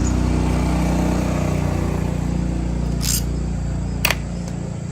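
A motor running steadily with a low hum, then cutting off abruptly near the end, with two sharp clicks about three and four seconds in.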